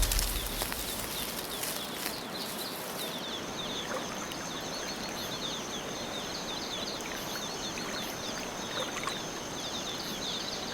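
Tropical rainforest ambience: a steady rushing hiss with many quick high chirps, and a steady high whine that joins about three seconds in.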